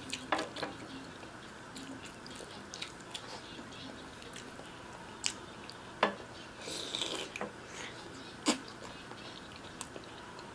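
Close-miked eating sounds: quiet chewing with scattered wet mouth clicks and smacks, a few of them sharp. There is a short hissing sucking sound about seven seconds in.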